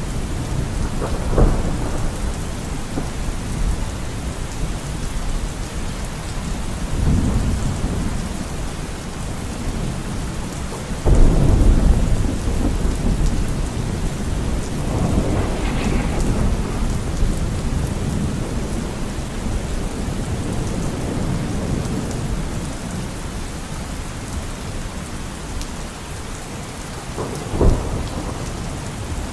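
Steady heavy rain with thunder: a loud low rumble about eleven seconds in, softer rolls around seven and fifteen seconds, and two short sharper claps, one near the start and one near the end.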